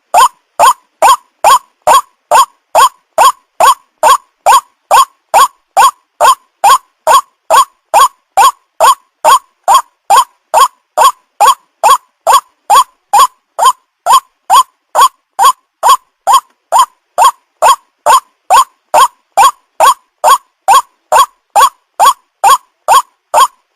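White-breasted waterhen (ruak-ruak) calling, one short note repeated evenly about twice a second without a break.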